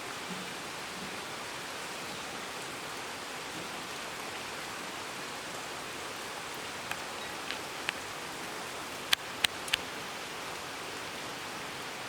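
Steady rain-like hiss, with a few sharp clicks: three faint ones about seven seconds in, then three louder ones in quick succession around nine seconds.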